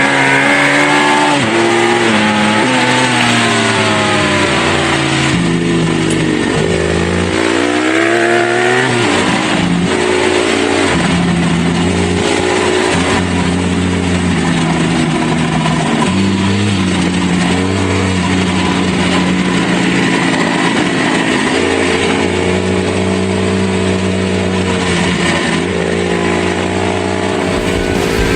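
Dirt bike engine running under load on an off-road trail, its pitch rising in sweeps and stepping up and down as the rider works the throttle and gears.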